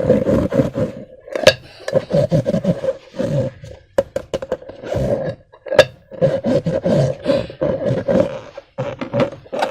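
Slime and rubber balloons being squeezed and stretched by hand: irregular wet squelches and rubbery squeaks, with a few sharp clicks between them.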